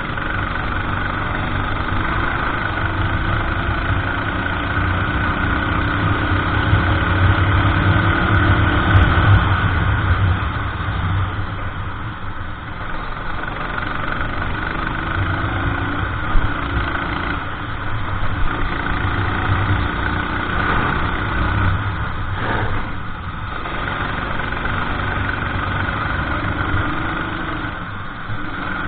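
Racing kart engine running hard, its pitch rising and falling again and again as the kart speeds up and slows for corners.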